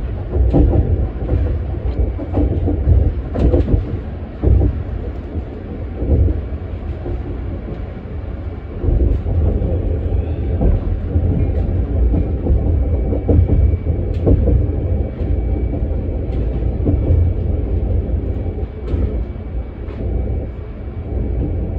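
Ride noise inside a moving Metra commuter train car: a steady low rumble, with wheels clicking over the rails now and then. A faint steady high whine comes in about halfway through.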